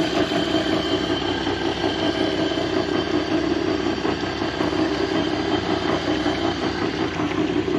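An engine running steadily, a constant drone with no change in pitch.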